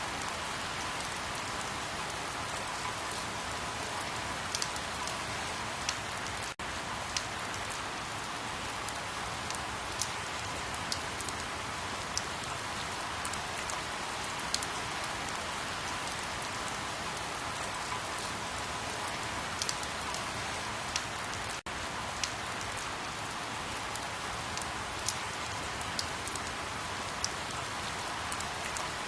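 Steady rain falling on a surface, an even hiss with scattered sharp drop hits. It cuts out for an instant twice.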